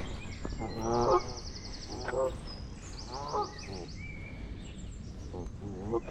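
Geese honking, about four calls, the loudest about a second in. A small songbird gives a fast, high trill twice.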